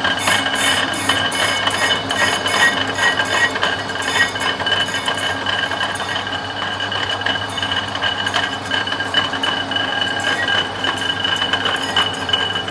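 Brake disc rotor spinning on a brake lathe while the cutting tool skims its face: a steady high metallic ringing over a low motor hum, with a continuous scraping, clinking chatter of the cut. The rotor is being resurfaced to remove the unevenness that causes brake vibration.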